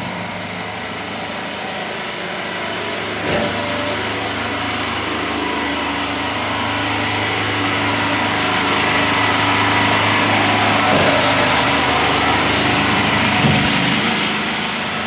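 A small engine running steadily, slowly growing louder, with a few short knocks.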